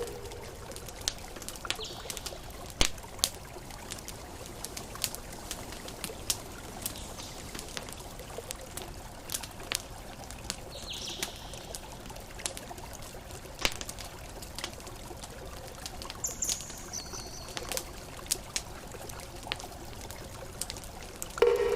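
Campfire crackling, with frequent sharp pops, over a steady wash of ocean waves. A few short high chirps sound now and then.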